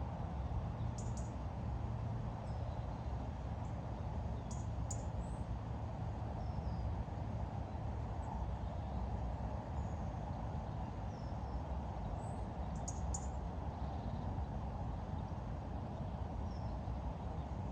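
Small birds giving a few short, very high chirps, three times, over a steady low rumble of outdoor background noise.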